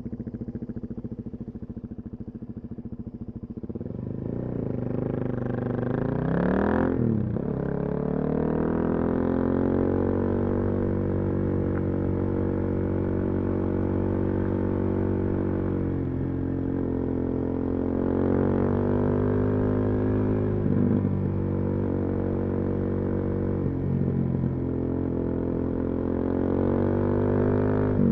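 Suzuki DR-Z400SM single-cylinder four-stroke running through a full Yoshimura exhaust: steady at low revs at first, then revved with the pitch sweeping up and down about four to seven seconds in, then held at steady riding revs with a few brief dips as the throttle is eased.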